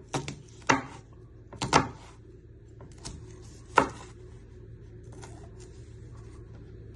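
Kitchen knife chopping bell pepper on a chopping board: a handful of sharp, irregularly spaced strikes in the first four seconds, then only faint taps.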